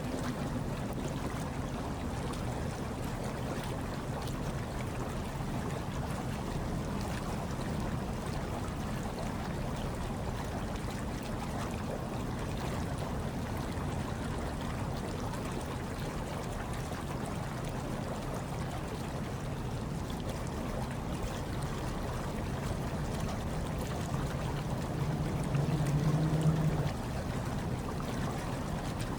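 Hot tub water churning and bubbling steadily, over a low hum; the hum and the water swell louder for a few seconds near the end.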